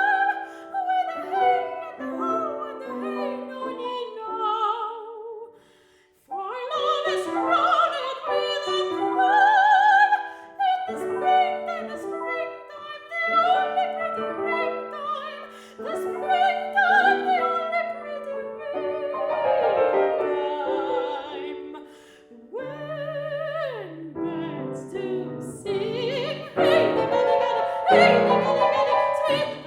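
Soprano singing a classical art song with vibrato over piano accompaniment, with a brief pause about six seconds in.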